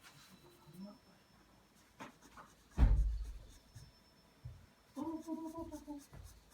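Pencil strokes scratching on paper, with one loud low thump about three seconds in and a short pitched, wavering vocal sound about a second long near the end.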